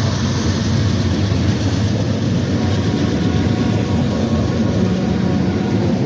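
A CSX train passing close by: a loud, steady rumble with a low engine drone whose pitch shifts slightly near the end.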